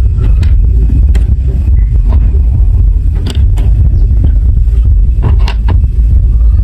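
Marbles rolling along a plastic marble-run track: a steady low rumble with scattered sharp clicks as marbles knock against the pieces, a cluster of clicks about three and five and a half seconds in.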